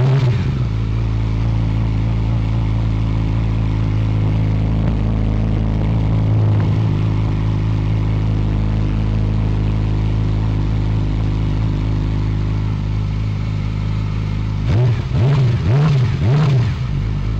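Yamaha YZF-R6 inline-four sport-bike engine idling steadily through its exhaust, then revved in about three quick throttle blips near the end.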